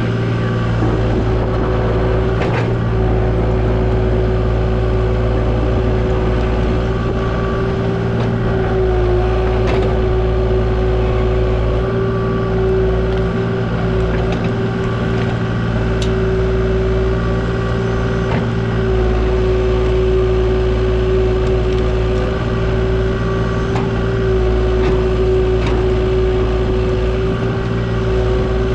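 Kubota KX040 mini excavator's diesel engine running steadily under working throttle, with a steady whine over it and a few faint knocks.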